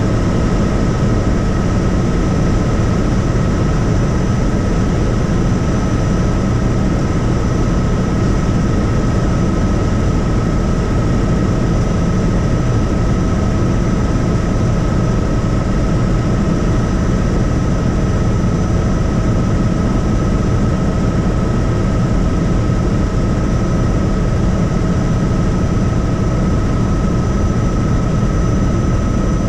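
Helicopter in flight: steady, loud rotor and engine noise with a constant high-pitched whine over it.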